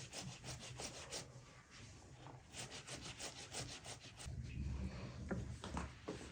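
Quick, rhythmic rubbing or scraping strokes, about six a second, in two runs, with a few light knocks near the end.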